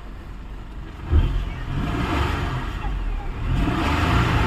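Maruti Suzuki Celerio engine running on CNG just after starting, now that a faulty added ignition relay has been bypassed. About a second in, the engine sound suddenly gets louder and heavier and stays up.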